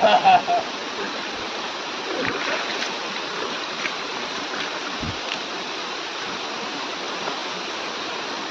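Steady rush of water falling and flowing at a waterfall, with a brief burst of a voice right at the start.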